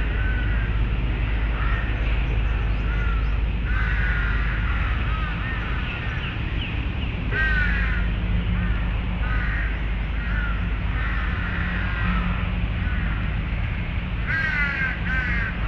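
Birds calling over and over with harsh, crow-like caws, coming in clusters, over a steady low background rumble.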